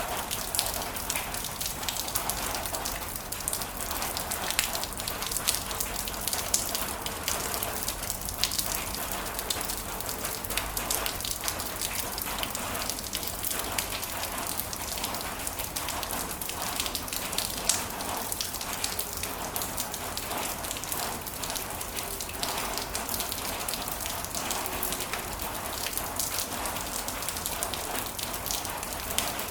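Heavy rain falling steadily, with many individual drops pattering and splashing on surfaces.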